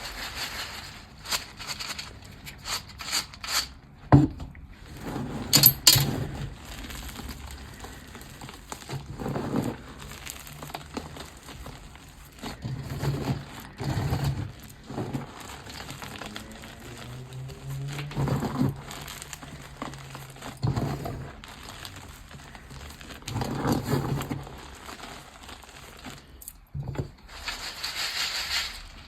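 Blocks of gym chalk being crushed and crumbled, making irregular crunches with sharp snaps and louder bursts every few seconds.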